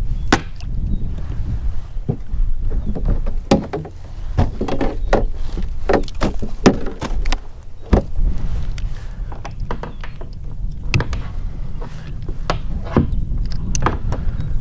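Wind rumbling on the microphone, with repeated knocks and clunks against the kayak as gear is handled aboard.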